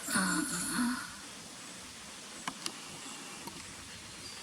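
A brief low human vocal sound, like a murmur or sigh, lasting under a second, followed about two and a half seconds in by two sharp clicks in quick succession.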